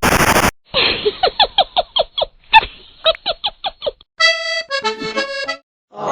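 A run of short cartoon comedy sound effects: a brief burst of noise, then a quick series of about a dozen short sliding squeaks, then a few pitched musical notes with an accordion-like tone.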